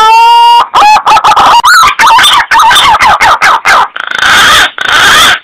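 Loud bird calls: a long rising call rich in overtones, then a fast run of short wavering notes, ending in a few harsh, rasping calls.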